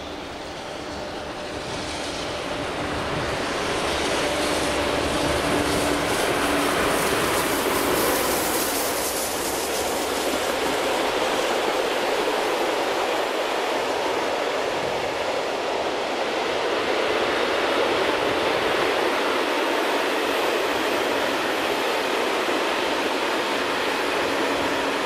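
Steam-hauled passenger train passing close by: the sound swells over the first few seconds as the steam locomotive approaches, then holds steady as the long line of coaches rolls past on the rails.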